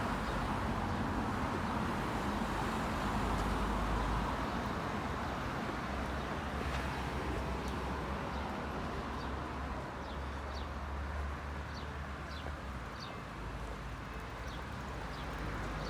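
Steady outdoor background noise with a low rumble, like distant traffic, and a few brief faint bird chirps about two-thirds of the way through.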